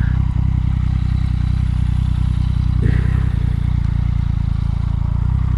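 Motorcycle engine running steadily at low revs, holding an even pitch.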